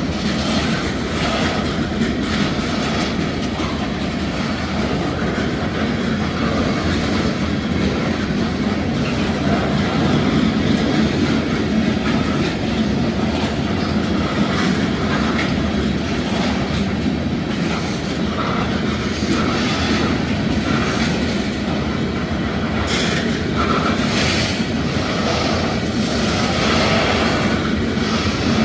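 Freight train boxcars rolling past at close range: a steady rumble and clatter of steel wheels on the rails, with occasional sharper clanks.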